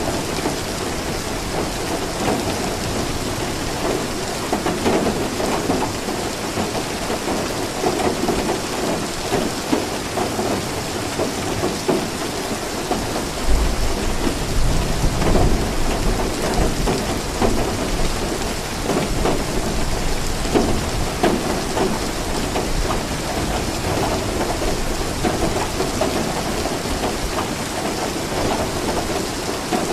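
Steady rain falling and pattering on surfaces, with a deep low rumble of thunder swelling about halfway through and fading after a few seconds.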